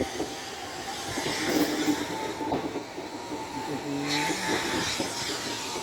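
Passenger train running along the track, a steady rumbling noise heard from on board, with a brief pitched sound about four seconds in.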